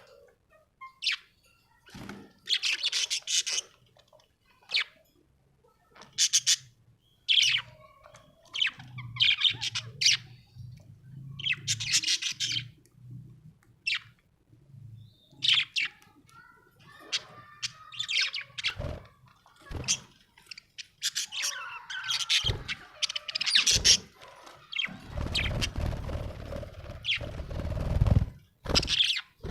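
Budgerigar chirping: many short, high chirps and warbles in uneven bursts. About three seconds of rough, noisy rustling comes in near the end.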